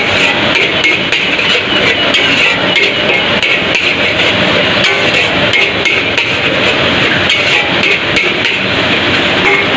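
Metal spatula striking and scraping a wok in quick, irregular clanks while mee goreng is stir-fried, over a steady hiss.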